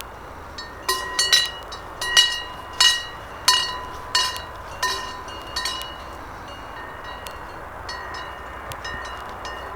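Cowbells clanking irregularly: a quick run of about a dozen ringing metallic strikes in the first six seconds, then fainter, sparser clinks, over a steady outdoor hiss.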